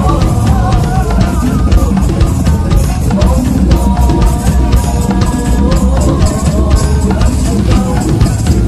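Drums played loudly in a fast steady rhythm, bass drum and snare-like hits, with a wavering melody over them.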